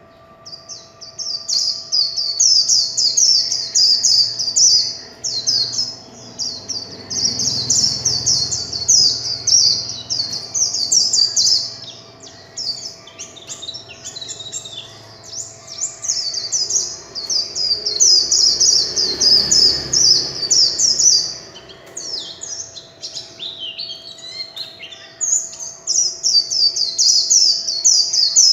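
A white-eye (vành khuyên) singing its 'líu' song: long runs of very quick, high twittering notes, broken now and then by short pauses. A faint steady hum lies underneath.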